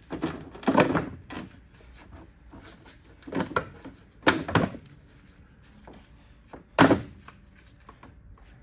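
A handful of separate thumps and clunks, five or so, spread over several seconds with quiet between them.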